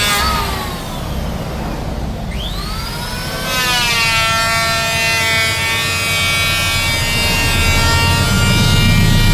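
Electric woodworking power tool's motor whine dropping in pitch, then spinning back up about two and a half seconds in and running steady at high speed, with a low rumble building near the end.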